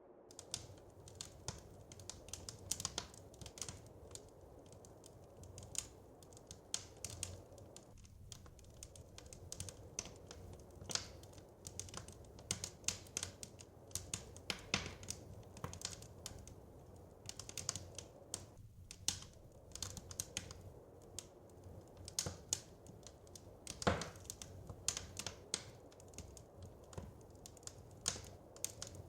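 Wood fire crackling in a fireplace: irregular sharp pops and snaps over a low, steady rumble, with one louder pop late on.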